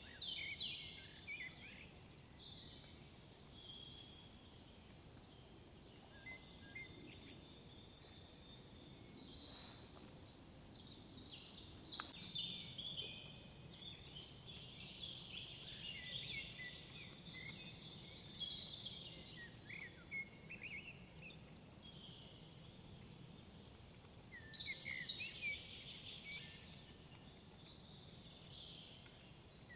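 Several songbirds singing at once in woodland, with overlapping high chirps, quick trills and whistled phrases that come and go, over a faint steady background rush.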